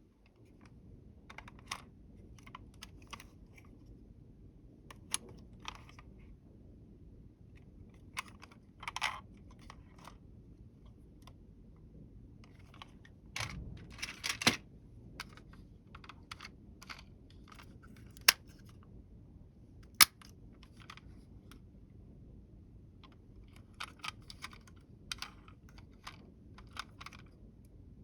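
Small hard toy vehicles being handled: irregular light clicks and clatter, with a denser stretch of clatter about halfway and two sharp single clicks a little later.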